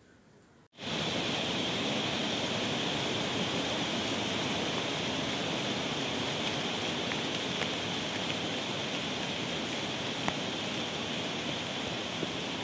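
Heavy downpour: a dense, steady hiss of pouring rain that starts abruptly about a second in, with a few faint ticks of drops.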